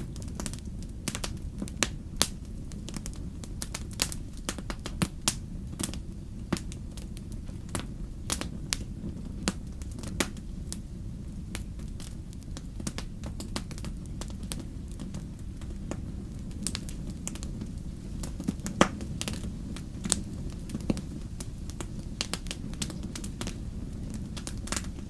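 Wood fire in a fireplace crackling: a steady low rumble of burning with frequent irregular sharp pops and snaps.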